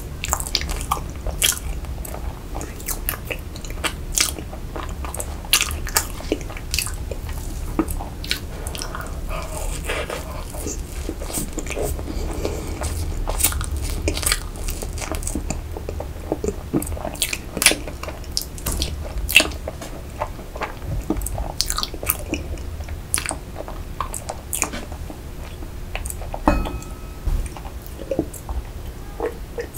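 Close-miked chewing of soft rainbow layer cake with cream frosting: a steady run of wet mouth clicks and smacks with a little crunch. Near the end she drinks milk from a glass.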